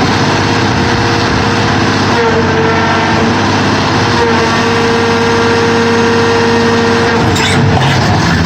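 Sierra 4200 scrap car baler running under load: its engine and hydraulics make a steady loud drone, with a whine held for several seconds in the middle, and a brief noisy burst about seven and a half seconds in.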